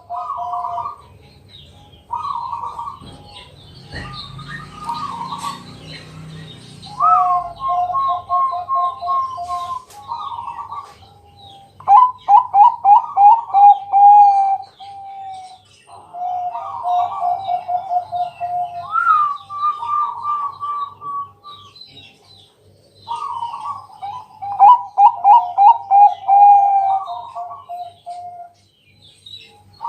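Zebra doves (Bangkok perkutut) cooing: phrases of quick rolling coo notes repeated every few seconds, the loudest phrases about twelve and twenty-five seconds in.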